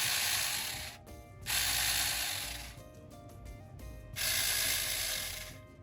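Tingmengte 6-inch 24-volt cordless mini chainsaw run with no load in three short trigger pulls: each time the motor and chain whir up at once, then wind down after the trigger is let go. This is the saw's first test run.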